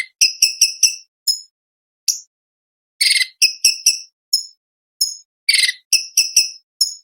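Cucak cungkok (leafbird) singing a fast, sharp song: short piercing chirps repeated several times a second, broken by harsh chattering bursts three times.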